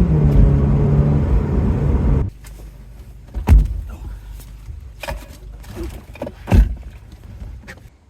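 Car engine running, then switched off about two seconds in. Afterwards there are two heavy thumps about three seconds apart, with a few lighter knocks between them.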